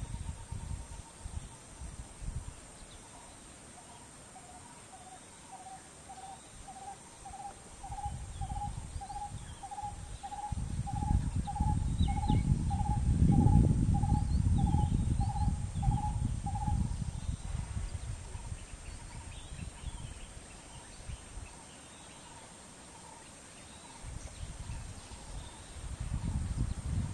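A bird calling one short note over and over, about two a second, at a steady pitch, for most of the first two-thirds. Over the middle a low rumbling noise swells and fades, and it is the loudest thing.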